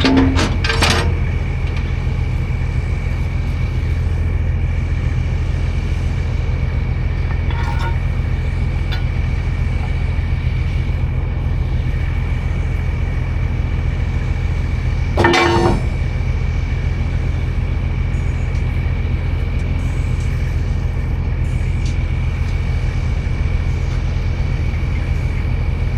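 Heavy diesel engine running steadily, a low drone with a constant high whine over it. A short, loud clatter about 15 seconds in.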